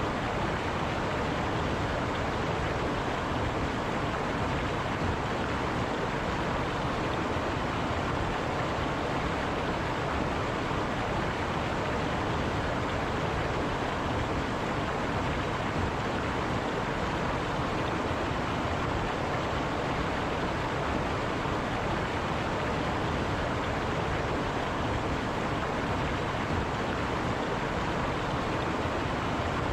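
River water flowing and rushing over rocks: a steady, unbroken rush.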